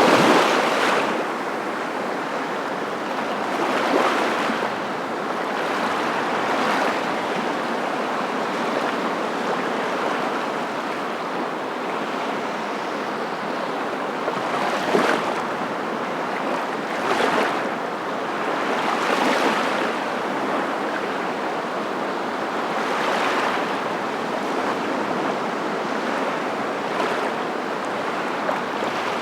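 Ocean waves: a steady rush of surf that swells every few seconds as waves break.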